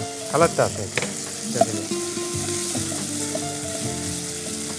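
Chopped onion, ginger and garlic sizzling as they fry in oil in a non-stick pot, stirred with a wooden spatula.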